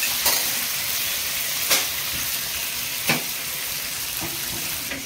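Onions and spice masala frying in oil in an aluminium kadai, sizzling steadily, while a metal spatula stirs and scrapes against the pan about four times.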